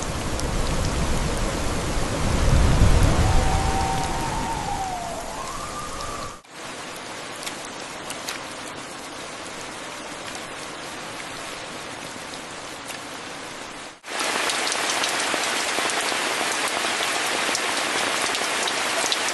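Steady rain falling, changing abruptly in strength about six and fourteen seconds in, heaviest at the end. In the first few seconds a deep rumble swells and fades beneath the rain.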